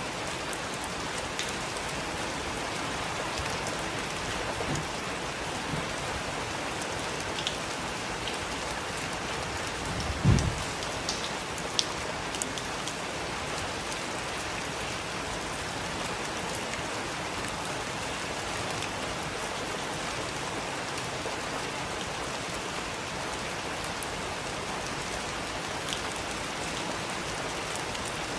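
Heavy rain falling steadily, with scattered sharp drop ticks. About a third of the way in comes a brief low thump, the loudest sound in the stretch.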